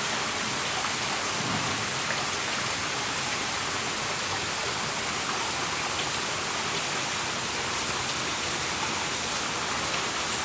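Heavy rain pouring down in a steady hiss, with faint scattered drop ticks.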